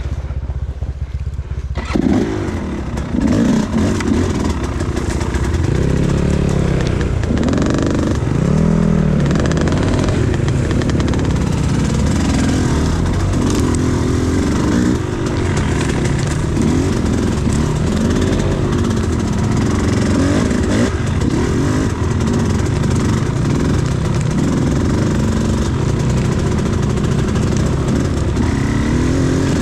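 Enduro motorcycle engine revving up and down over and over, the pitch climbing and dropping again and again. Before that, for the first couple of seconds, it runs lower and steadier.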